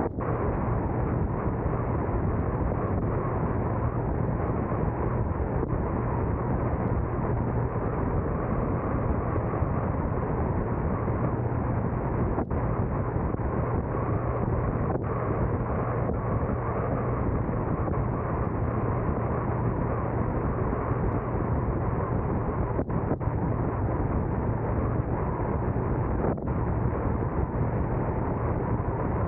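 Steady road and engine noise of a car driving, a constant rush with a low hum, broken by a few brief dropouts in the sound.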